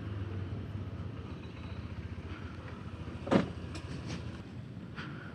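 Small motorcycle engine running steadily at low revs, with a sharp click about three seconds in and a few faint ticks after it.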